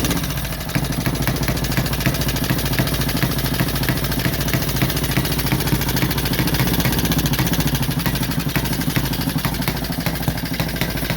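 Vintage motorcycle engine idling steadily, with a fast, even firing beat.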